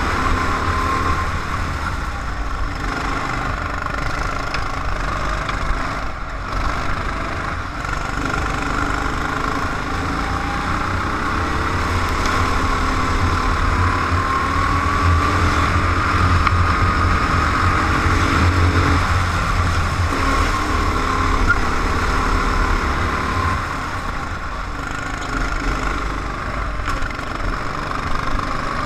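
Car engine heard from on board, running continuously under changing throttle, its pitch rising and falling as the car is driven around the circuit.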